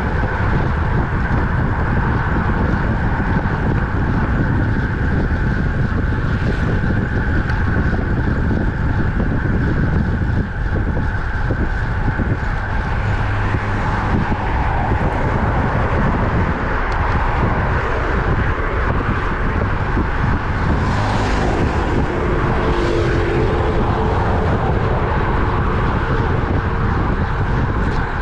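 Steady wind rushing over the microphone, mixed with tyre and road noise, on a road bike ride at speed. Two brief swells of hiss come a couple of seconds apart near the end.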